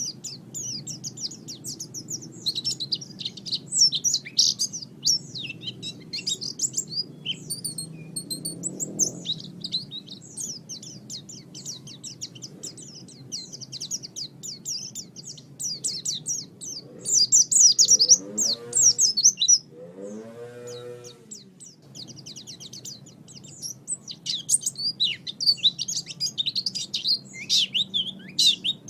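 White-eyes (pleci) singing a fast, continuous twittering song of high chirps, thinning out for a few seconds in the middle. Twice, at about 18 and 20 seconds in, a lower arching call sounds under the song.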